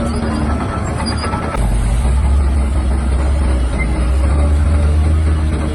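Heavy diesel earthmoving machinery running with a deep engine rumble. About one and a half seconds in, the rumble grows louder and deeper and stays up, as the engine takes on load.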